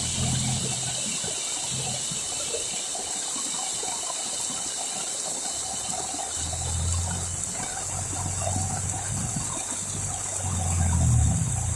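Heavy rain pouring down with a steady hiss, its runoff gushing.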